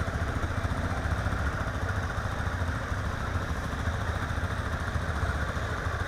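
Trail motorcycle engine running steadily.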